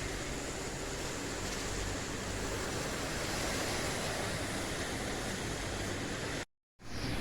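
Steady rain falling, a dense, even hiss. It cuts out to silence for a moment about six and a half seconds in, then comes back.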